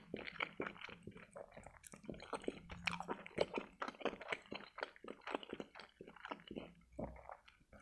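Close-miked wet chewing and lip smacking of soft boiled pelmeni dumplings, a fast, irregular run of small smacks and clicks.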